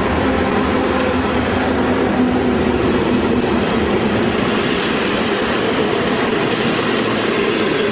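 Passenger coaches of a train rolling past along a platform: a steady, loud noise of wheels running on the rails.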